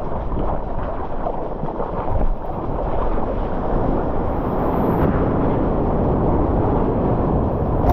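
Rushing water and wind noise on a camera microphone in the surf, a loud steady roar without a break.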